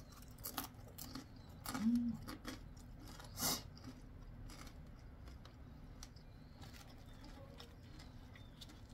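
Close-up crunching and chewing of crispy glazed Korean fried chicken (dakgangjeong): a run of crisp crunches in the first few seconds, the loudest about three and a half seconds in, with a short hummed "mm" about two seconds in, then softer chewing.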